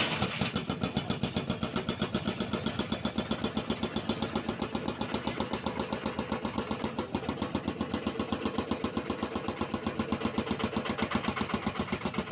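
Hydraulic breaker on a CAT 320C excavator hammering concrete, in a rapid, steady run of blows several times a second.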